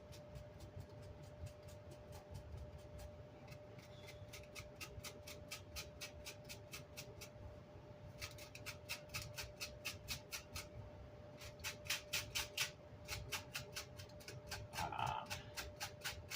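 Faint, quick back-and-forth scrubbing strokes, several a second in runs with short pauses, as old amplifier grill cloth is brushed or rubbed to lift glue residue. A faint steady hum lies underneath.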